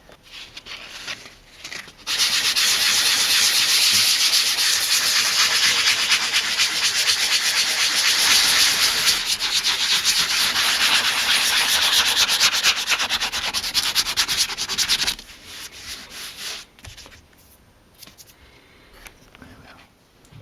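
Sandpaper rubbed by hand over the leather filler on a leather chair, smoothing it: a steady, fast scratching that starts about two seconds in and stops about five seconds before the end.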